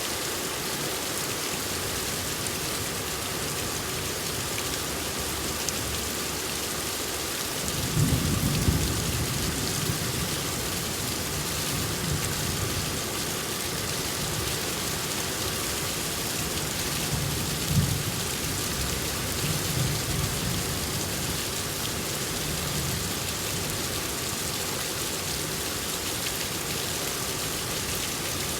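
Steady, heavy rain hissing evenly. Low rumbles of thunder roll in about eight seconds in and recur several times later, one brief louder crack near the middle.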